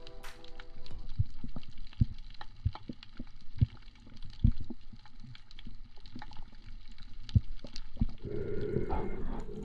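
Underwater sound: scattered sharp clicks and dull low knocks over a faint hiss. Near the end a louder gurgling rush sets in. A music passage is fading out at the very start.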